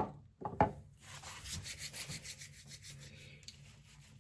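Hands rubbing beeswax hair grease into hair: two sharp scuffs in the first second, then quick repeated rubbing strokes that slowly fade.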